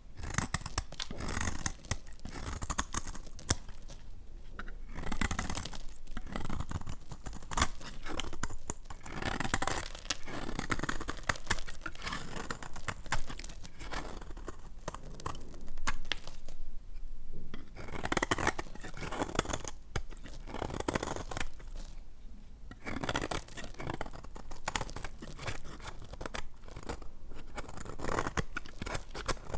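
Knife cutting through dry, hard laundry soap: crisp crackling and scraping strokes with sharp snaps as the soap breaks, in runs separated by short pauses.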